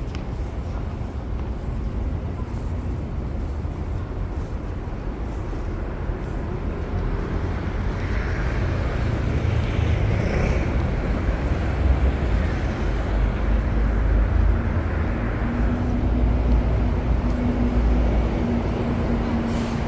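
City street traffic: a steady low rumble of engines and tyres that grows louder through the middle as vehicles pass close. A steady engine hum joins about three-quarters of the way through.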